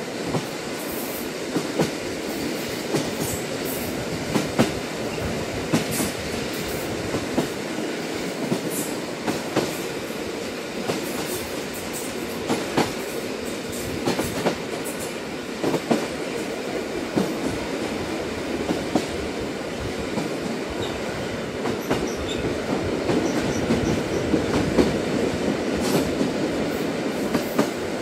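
Train running along the track: a steady rumble with irregular sharp clicks and knocks from the wheels and rails.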